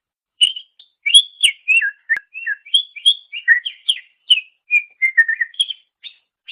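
Cucak ijo (leafbird) singing a quick, varied run of clear whistled notes that slide up and down, starting about half a second in and stopping just before the end.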